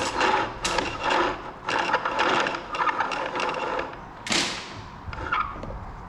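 New sash window cord being pulled hand over hand through the window frame, a rhythmic scraping about twice a second. One louder swish comes about four seconds in, then the scraping thins out.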